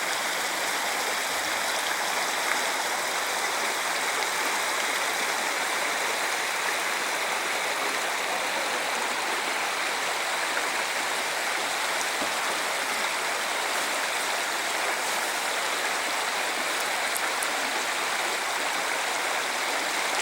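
Mountain river rushing steadily over rapids, an even unbroken roar of running water.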